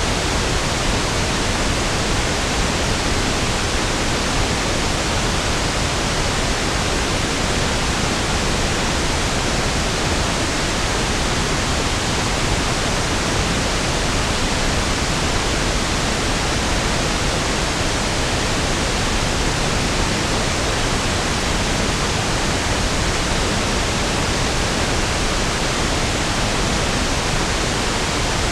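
Steady pink noise (1/f noise): an even, unbroken hiss with equal energy per octave, deeper and smoother than white noise.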